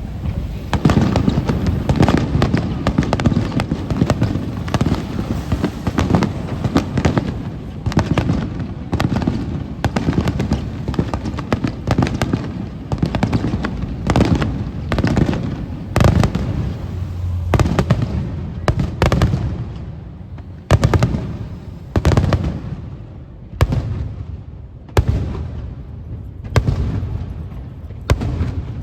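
Fireworks display: aerial shells bursting in a dense barrage of bangs over a low rumble, thinning in the last third to separate booms about one and a half seconds apart.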